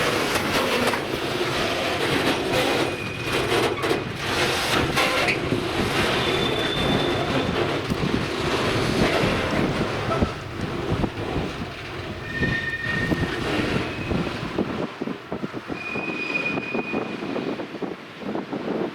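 A train running past on the track: wheels clattering over rail joints and points, with a few brief high squeals. It grows quieter after about fifteen seconds.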